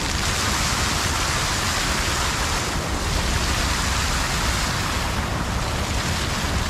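Water falling and splashing continuously in an outdoor water feature, a steady, unbroken rush.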